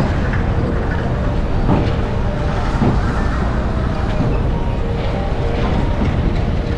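Passenger train running across the steel bascule span of the Pamban rail bridge, heard from the carriage: a steady, loud rumble of wheels on rails and rushing air, with a few light knocks.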